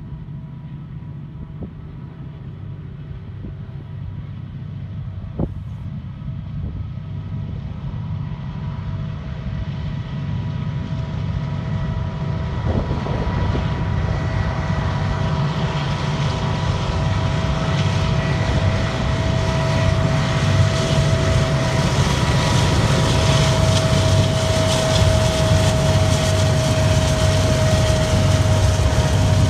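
Diesel locomotives at the head of a Union Pacific double-stack freight train approaching and passing. A low engine rumble grows steadily louder, with a steady high tone over it from about halfway through.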